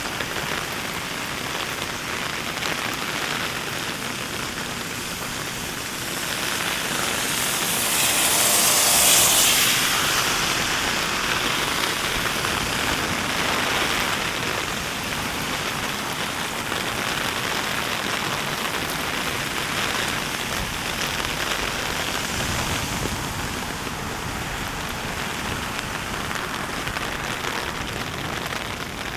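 Steady heavy rain falling, an even hiss, with a louder swell of hiss that builds and fades between about seven and ten seconds in.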